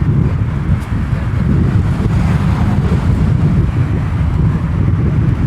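Wind buffeting the handheld microphone: a loud, uneven low rumble, with street traffic beneath it.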